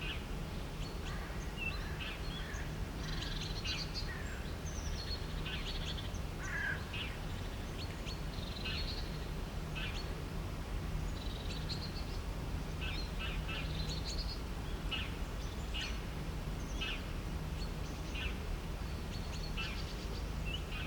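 Several birds chirping and calling, with short high chirps scattered throughout, over a steady low background hum.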